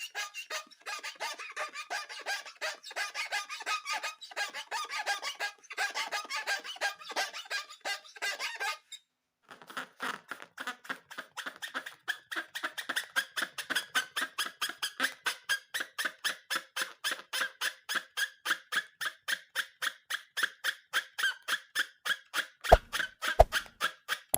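Rubber balloons squeaking as they are rubbed and squeezed: a quick irregular run of squeaks, a brief pause about nine seconds in, then an even rhythm of about three or four squeaks a second. Near the end there are two short thumps.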